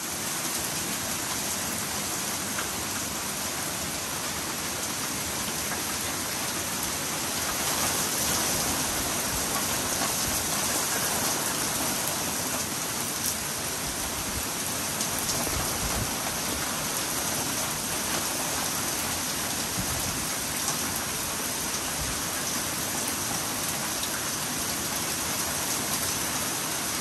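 Heavy rain falling steadily on pavement, parked cars and trees: a continuous, even hiss.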